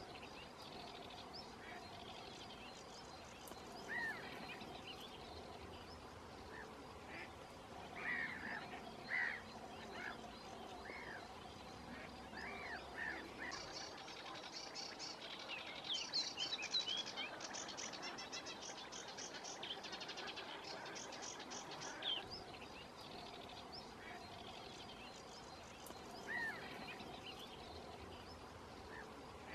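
Waterbirds calling on a lagoon shore: scattered short, arching calls, then several seconds of fast, high chattering in the middle, over a faint steady background.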